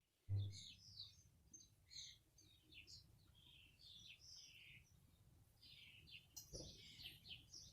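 Faint birdsong: small garden birds chirping on and off, in short scattered calls. A brief low thump comes just after the start.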